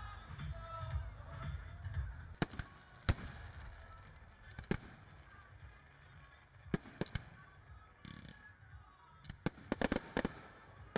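Fireworks going off: sharp, scattered bangs and cracks at irregular intervals, coming quicker in a cluster near the end.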